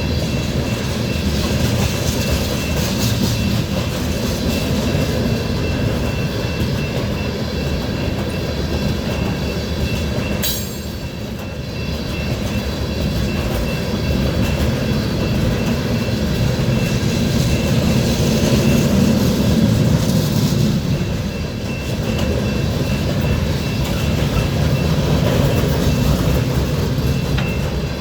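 Loaded covered hopper cars of a BNSF frac sand freight train rolling steadily past, with wheels clacking over the rail joints and one sharp knock about ten seconds in.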